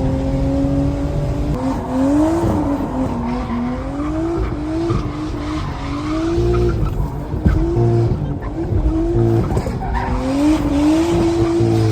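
Drift car engine revving up and down over and over, its pitch rising and falling about once a second, with tyre squeal and skidding from the car sliding.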